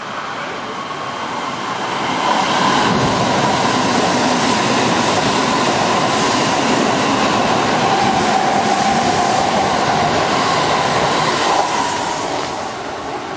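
Kintetsu electric commuter train passing through a station platform at speed: a loud, steady rush of wheels on rail with a whine running through it. It builds over the first two seconds and eases near the end.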